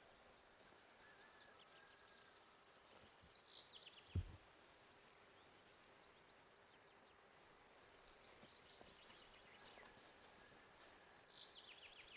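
Faint birdsong in quiet outdoor surroundings: scattered high chirps, a couple of quick falling trills and one fast rapid trill, with a single dull thump about four seconds in.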